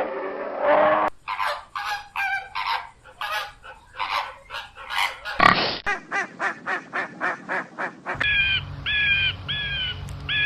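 Farm fowl honking in a long run of short calls, several a second. Four separate falling calls come near the end.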